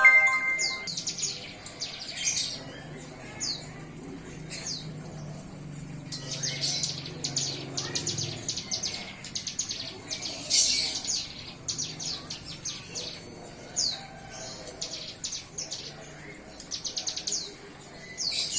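A young ciblek gunung (mountain prinia), newly weaned, singing in short bursts of rapid, high stuttering trills mixed with quick down-slurred chirps, beginning to find its voice.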